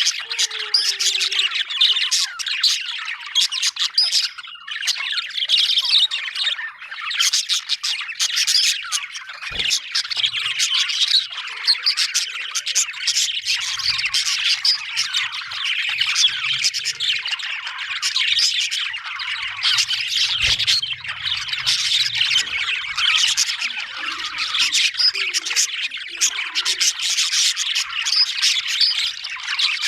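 Budgerigars chattering and chirping continuously, a dense stream of warbles, squawks and clicks with no pause.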